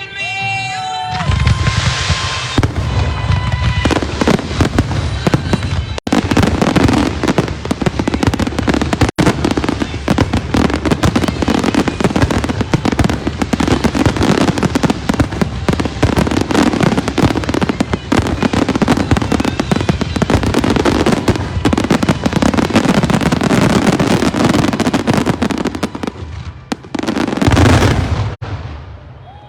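A dense, unbroken barrage of aerial fireworks shells bursting and crackling, with music playing underneath. It starts about a second in and stops abruptly near the end, as the closing barrage of the pyromusical show.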